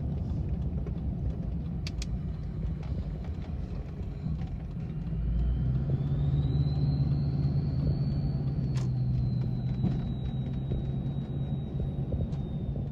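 Duramax diesel pickup driving, its engine drone picking up about five seconds in as a high whine rises and then holds steady.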